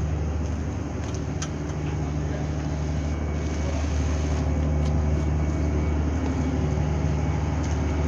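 A large engine running steadily with an even low drone.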